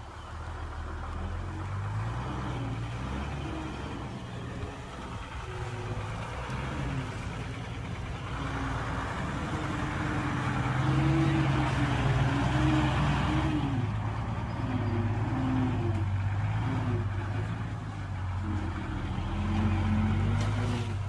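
Heavy diesel engine of earthmoving machinery running and being revved, its pitch rising and falling. A louder rushing noise joins it in the middle of the stretch.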